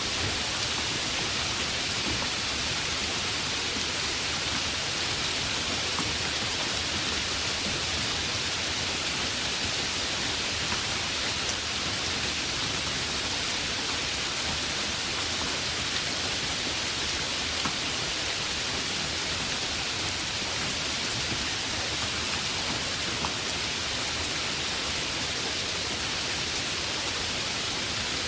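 Heavy rain falling steadily, an even hiss with a few faint separate drop ticks.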